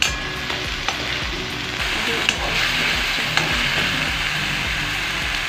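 Ginger-garlic-onion paste sizzling in hot oil in a metal kadhai, stirred with a slotted steel spatula. The spatula knocks sharply against the pan a few times.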